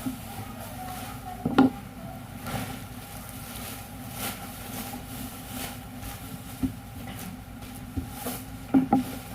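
Machinery running with a steady hum, with sharp knocks or clanks about a second and a half in, a couple more later, and a double knock near the end.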